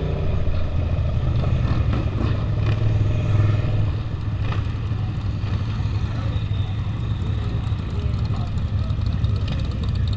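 Suzuki SV650's V-twin engine running steadily under the rider, heard from a helmet camera with wind rushing past.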